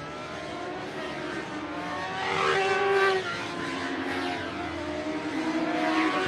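Superbike engine heard from a camera mounted on the bike, rising and falling in pitch as the throttle opens and closes, loudest about three seconds in.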